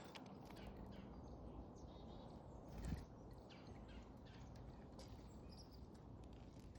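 Faint, scattered chirps of small backyard songbirds, with a soft knock about three seconds in.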